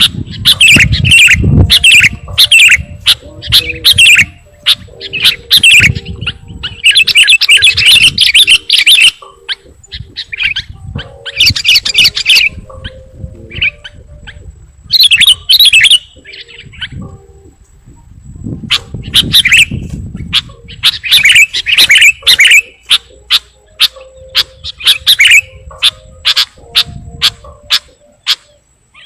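Sooty-headed bulbul (kutilang) calls used as a bird lure: loud bursts of rapid chirps, broken by short pauses.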